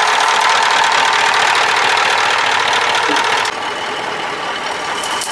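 An engine running steadily. About three and a half seconds in, its sound changes abruptly and drops slightly in level.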